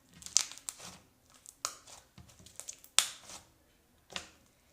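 Clear slime, freshly softened with hand soap, being squeezed and stretched by hand, giving irregular sticky clicks and pops. The loudest come about a third of a second in and again about three seconds in.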